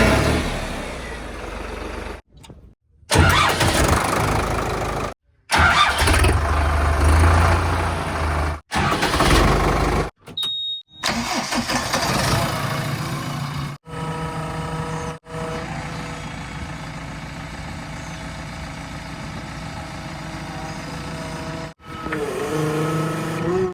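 Heavy diesel vehicle engines running and revving across a string of short spliced clips, broken by several abrupt cuts. The second half holds one steadier running engine.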